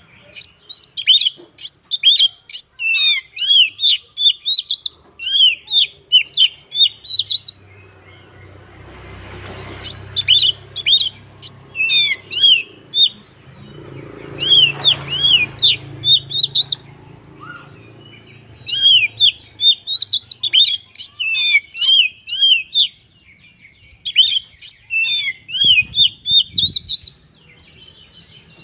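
Oriental magpie-robin singing a loud, fast song of sharp, sweeping chirps, delivered in five runs of several seconds each with short pauses between them.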